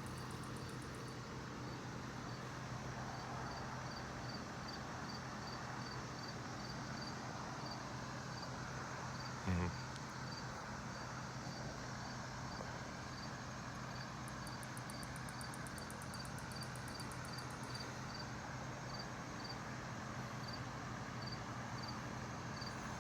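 Cricket chirping steadily, about three short high chirps a second, over a low steady hum. About nine and a half seconds in there is a single brief, sharp sound that falls in pitch and is the loudest thing heard.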